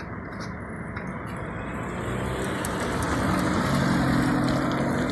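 A car engine running close by, a steady hum that grows louder over the first few seconds and eases a little near the end.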